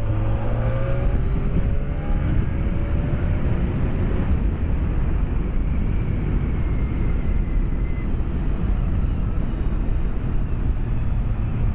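BMW K1200S inline-four engine and wind rush heard through a microphone inside the rider's helmet while riding. A steady low roar runs throughout, and the engine note climbs in pitch in the first few seconds and again near the middle.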